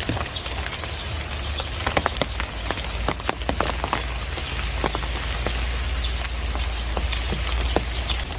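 Steady monsoon rain falling, with many separate drops striking hard surfaces at irregular moments over the even hiss of the rain, and a steady low rumble underneath.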